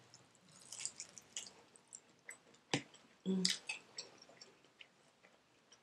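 Close-up mouth sounds of someone chewing fried chicken in sweet and sour sauce: soft wet smacks and small clicks, one sharper click a little before the middle, and a brief hummed "mm" of enjoyment a little past the middle.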